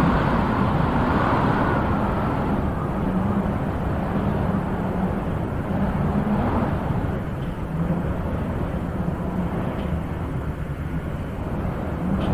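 Wind blowing steadily, swelling in gusts about every few seconds.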